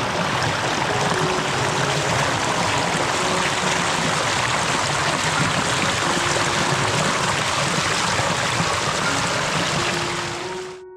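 Steady rush of flowing water from a creek and waterfall, fading out near the end.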